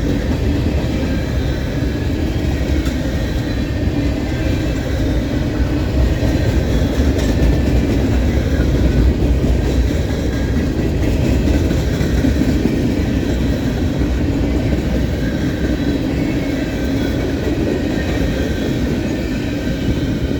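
Freight train cars rolling past: a loud, steady rumble of steel wheels on rail, with faint high ringing tones above it.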